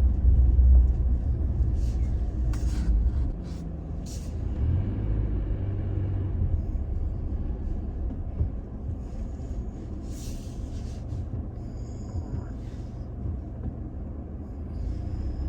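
Toyota Tacoma pickup driving slowly over a dirt track: a steady low engine and road rumble, heavier for the first few seconds and then quieter, with a few short clicks and knocks.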